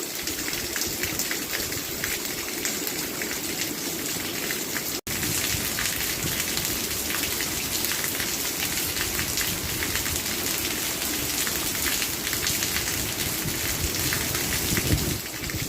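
Steady rain falling, a dense patter of drops. The sound cuts out for an instant about five seconds in.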